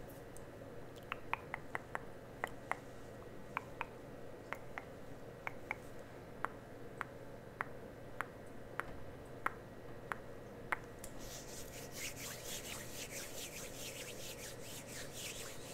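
Close-miked ASMR tapping and rubbing: about twenty sharp, irregular clicks or taps over some ten seconds, then quick, scratchy rubbing strokes from about eleven seconds in.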